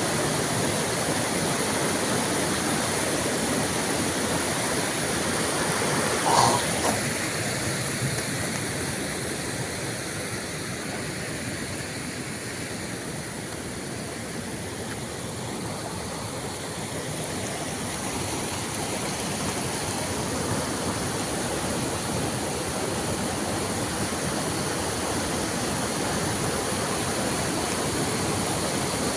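Waterfall's rushing water, a steady even roar, with one brief louder sound about six seconds in.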